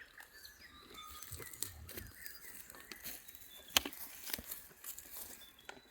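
Harlequin sheep grazing close by: irregular tearing and snapping sounds as they bite off and pull at grass, with faint birdsong behind.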